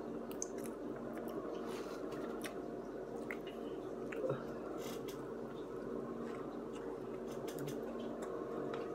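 A person eating a burger close to the microphone: biting, chewing and wet mouth clicks, one a little louder about four seconds in, over a steady low hum.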